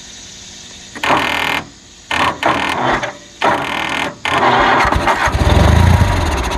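Kohler 20 HP Magnum lawnmower engine being cranked by its electric starter in several short bursts and then one longer crank, turning over without starting.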